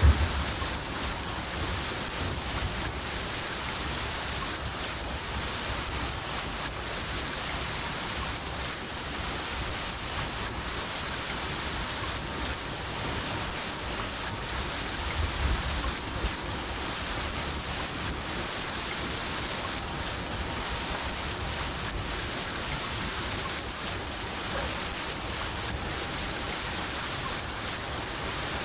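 A cricket chirping steadily, about three chirps a second, over the hiss of steady rain. The chirping stops briefly twice, in the first few seconds and again about a third of the way in. Low rumbles of thunder come near the start and about halfway.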